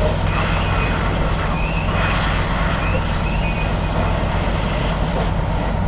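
A heavy truck's engine running steadily at idle, a constant low hum, with several short high chirps over it.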